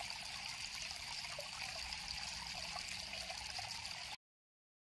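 River water flowing with a steady trickling rush, which cuts off suddenly near the end.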